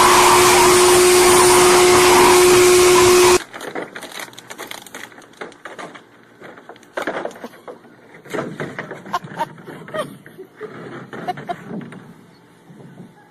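Hair dryer blowing loudly with a steady hum, cutting off abruptly about three seconds in. After it come scattered light clicks and knocks.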